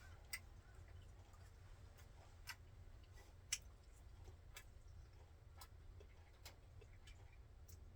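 Near silence: a low hum with faint, scattered clicks and ticks coming irregularly about once a second, one of them sharper about three and a half seconds in.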